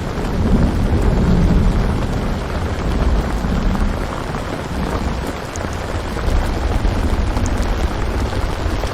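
Steady heavy rain ambience with a low rumble of thunder beneath it, strongest in the first couple of seconds.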